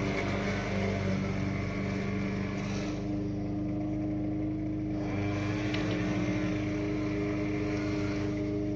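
Lawn mower's small gasoline engine running at a steady speed. Its higher-pitched sound dims about three seconds in, comes back about two seconds later, and dims again near the end.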